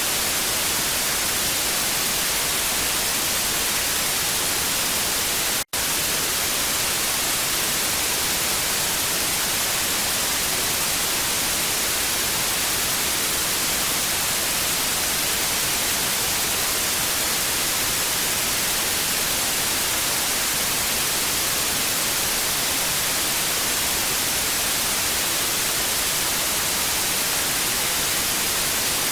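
Television static: a steady, even hiss, brightest in the high end, broken once by a very brief dropout about six seconds in.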